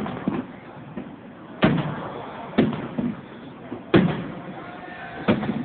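Aerial fireworks shells bursting in a series of five sharp bangs about a second apart, each trailing off in a short rumbling echo.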